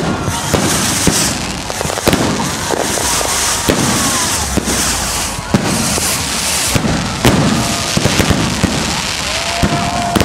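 Fireworks display: a rapid, continuous barrage of bangs and crackling from aerial shells and stick rockets, with a few short whistles gliding in pitch.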